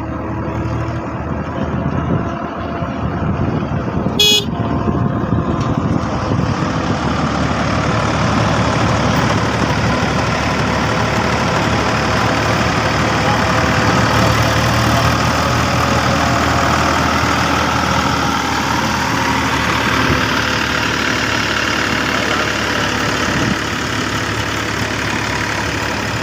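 Tractor diesel engine running steadily, growing louder from about six seconds in. There is one brief sharp high sound about four seconds in.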